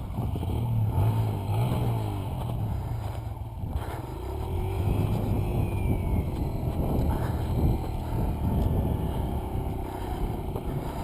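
Single-cylinder four-stroke dirt bike engine running steadily after being flooded, its pitch settling a little lower about four seconds in.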